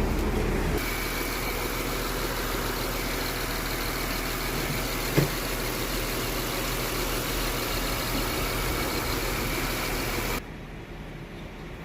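Honda Accord 3.0 V6 engine idling steadily after its knock sensor and wiring harness were replaced, with one short click about five seconds in. The level drops off sharply near the end.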